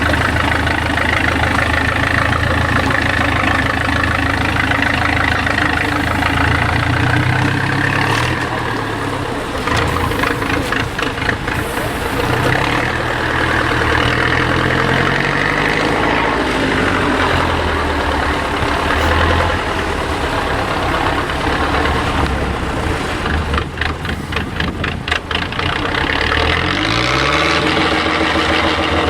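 IFA W50 off-road truck's diesel engine running under load, revving up and falling back several times. About three-quarters of the way through there is a quick run of clattering knocks.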